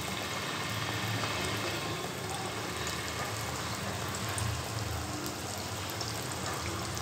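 Dal vada batter frying in hot oil in a steel kadhai: a steady sizzle with faint scattered crackles, over a low hum.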